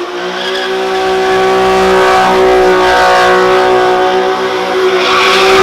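Car doing donuts, its engine held at high revs and its tyres squealing in a steady high tone that grows louder.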